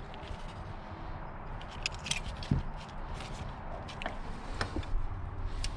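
Seat belt hardware being handled: scattered light clicks and small knocks with some rustling.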